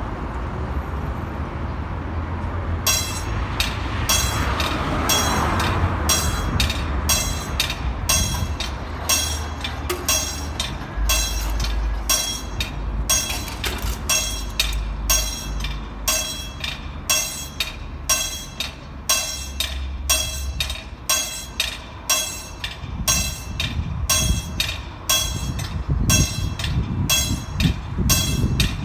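Diesel passenger train pulling away from a station, its engine giving a low rumble. From about three seconds in, a steady metallic dinging repeats about one and a half times a second, always at the same pitch.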